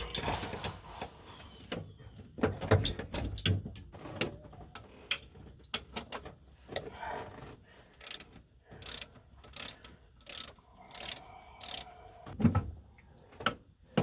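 Hand tools working on fan shroud bolts in a truck's engine bay: a socket ratchet clicking, with scattered sharp metal knocks and clanks at irregular moments.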